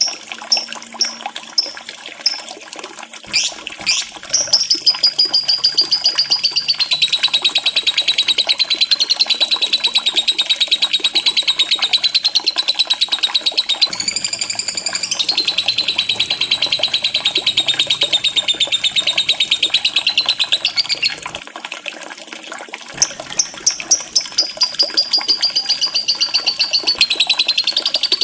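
Lovebird singing: a run of short high chirps, then a long, rapid, high-pitched chattering trill lasting about fifteen seconds, a short break, and another run of chirps and trills near the end.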